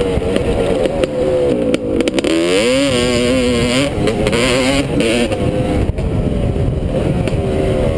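Honda dirt bike engine revving up and down with the throttle while riding, dropping briefly about two seconds in and then climbing again, over rushing wind and ride noise on the helmet microphone.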